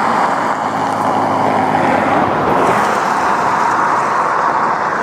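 Steady road and wind noise of a car driving at speed, heard from inside the vehicle.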